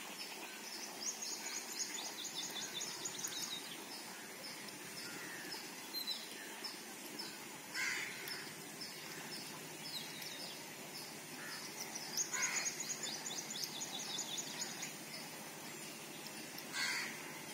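Birds calling: two long runs of rapid, high-pitched chirping, and three short harsh calls spread through, over a faint steady outdoor background.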